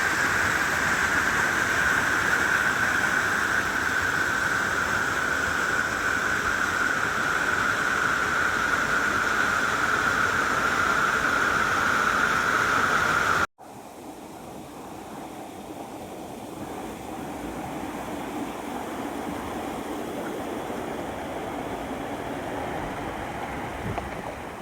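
Rushing water of a mountain stream, a loud steady splashing rush. About halfway through it cuts off abruptly and is replaced by a quieter, lower-pitched flow of water.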